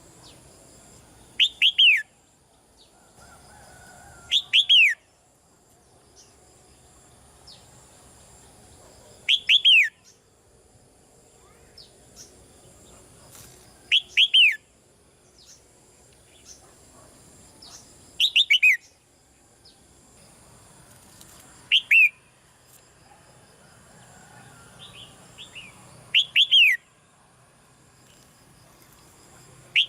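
Red-whiskered bulbul calling: short, loud phrases of quickly falling whistled notes, repeated about every four seconds, eight times, with fainter chirps between them.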